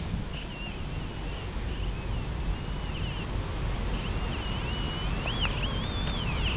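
Heavy wind buffeting the microphone as a steady low rumble, with a high, wavering, chirping tone over it that grows louder near the end.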